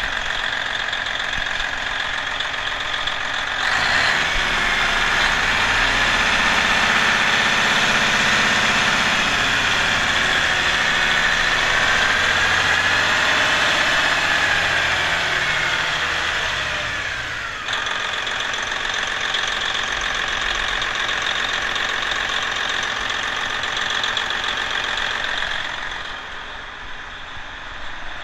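Detroit Diesel Series 60 12.7-litre inline-six diesel engine running at idle, revved up suddenly about four seconds in and held at higher speed, then dropped back to idle about eighteen seconds in. It is a used engine run to show it works.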